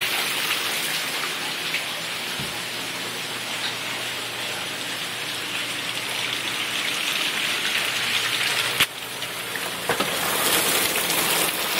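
Steady rush and splashing of rainwater pouring into a house as an indoor waterfall, apparently from overflowing gutters. A single short knock comes near the end.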